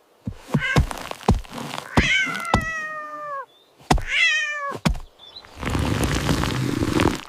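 A cat meowing twice, each meow a drawn-out falling call, among several sharp thumps and knocks, followed near the end by a long stretch of noisy rustling.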